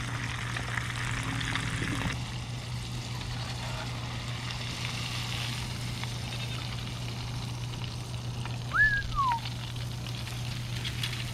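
Battered fish sizzling as it deep-fries in hot beef tallow, a steady hiss over a low hum. The hiss drops a little about two seconds in. Near the end there is one short falling chirp.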